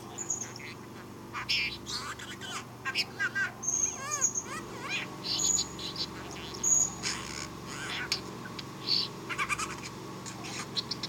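Budgerigar chattering and warbling in a quick, irregular run of short chirps, clicks and brief high whistles, with a few rising-and-falling squeaks, the chatter of a contented budgie.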